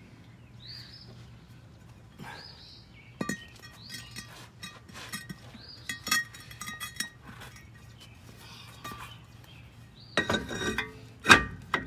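Clinks and clanks of a steel brake rotor being handled on the hub, each strike ringing briefly. The strikes are scattered through the middle, with the loudest cluster of clanks near the end.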